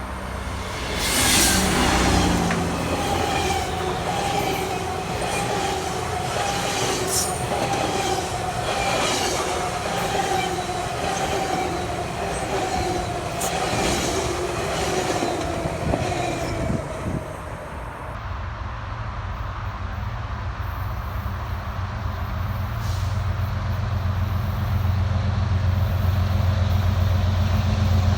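A train passing on the rails, its wheels clicking in a steady rhythm over rail joints with a wavering wheel squeal. Past the halfway point the clicking stops and a steady low engine drone takes over, growing louder toward the end.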